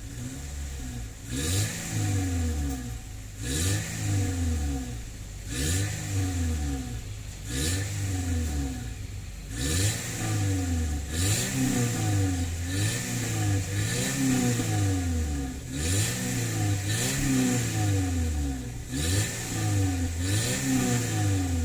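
2004 Honda City's four-cylinder i-DSI petrol engine, cold, revved over and over with short throttle blips. Each blip rises and falls back, more than a dozen times, about every second or so.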